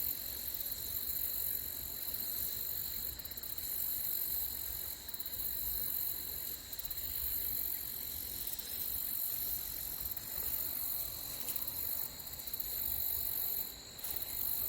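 Steady high-pitched insect chirring, typical of crickets, over an uneven low rumble.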